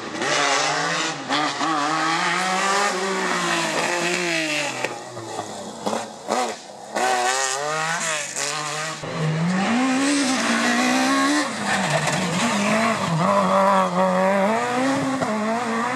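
Rally car engine driven hard on a special stage, revs climbing and dropping again and again through gear changes. There are short lifts off the throttle about five to seven seconds in, then it pulls hard again.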